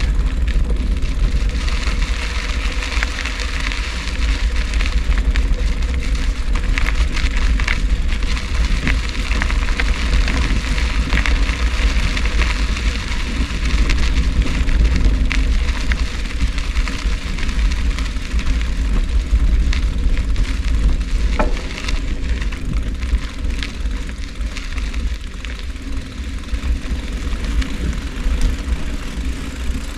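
Bicycle being ridden: wind buffeting the microphone as a steady low rumble, over the crackling hiss of the tyres rolling on the track.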